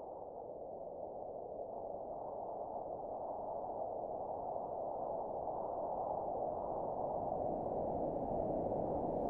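Muffled, dull rain noise with the highs cut off, swelling steadily louder.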